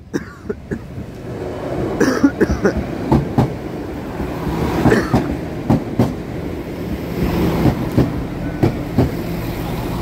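Northern Ireland Railways diesel multiple unit running into the station close by, its engine humming steadily with a run of sharp wheel clicks. It grows louder about a second or two in as the train draws alongside.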